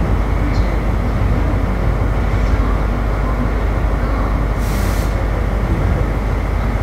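A train standing nearby with its engine running, a steady low rumble, and a short hiss of air about two-thirds of the way through.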